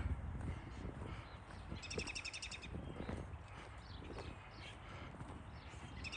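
A bird's harsh, rapid rattling call about two seconds in and again at the very end, over the irregular low thuds of running footsteps.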